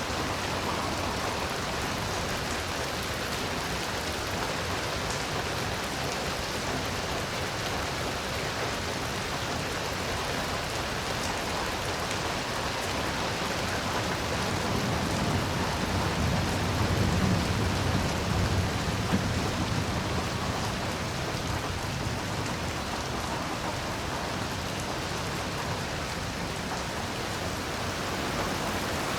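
Heavy rain falling steadily, with a low rumble of thunder that swells about halfway through and fades away.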